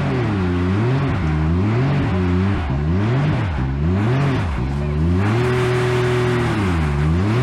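Side-by-side UTV engine revving up and down over and over, about once a second, with one longer held rev in the second half, as the machine is throttled through a technical trail section.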